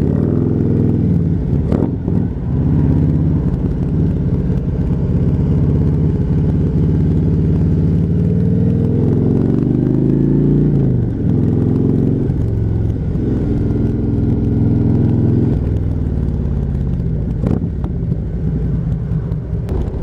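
Motorcycle engine pulling away and accelerating through the gears, its pitch climbing and then dropping at each of several shifts, heard from the rider's own microphone.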